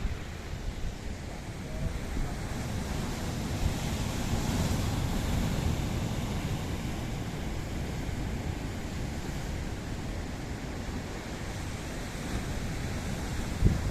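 Atlantic surf washing onto a beach, a steady rush that swells a few seconds in, with wind on the microphone and a brief thump near the end.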